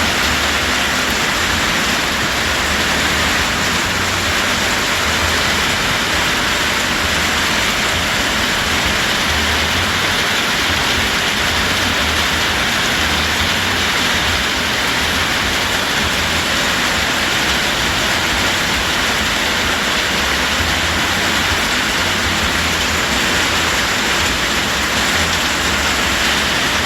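Steady, heavy summer rain: an even hiss without a break, with a faint irregular low rumble underneath.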